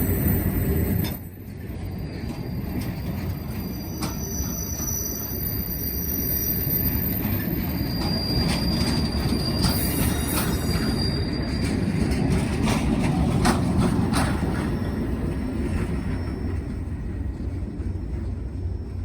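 Train rolling past: a steady rumble of railcars with high-pitched wheel squeal coming and going and scattered clicks from the wheels.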